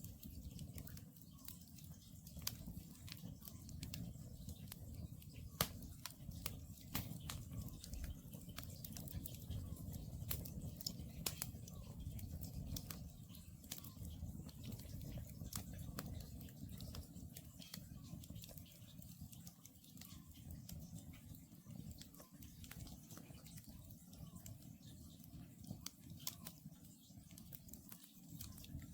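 Wood campfire burning, crackling with frequent sharp pops of splitting wood over a steady low rumble.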